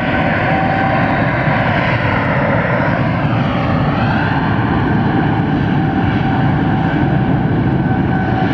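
Delta jet airliner's engines at full takeoff power during its takeoff roll: loud, steady jet engine noise with whining tones that dip and rise again about three and a half seconds in.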